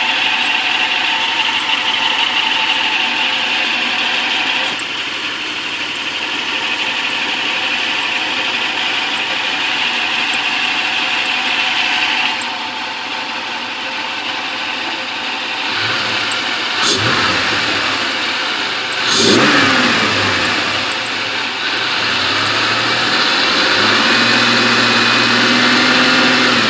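Toyota truck engine running with a strange vacuum-like hiss, the noise the owner is trying to trace. The engine is revved briefly twice about two-thirds of the way through, its pitch falling back after the second. Near the end it is held at a raised, steady speed.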